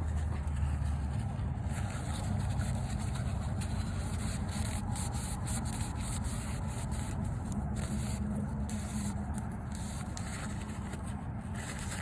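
A cloth rubbing and wiping over engine-bay parts in quick, irregular strokes.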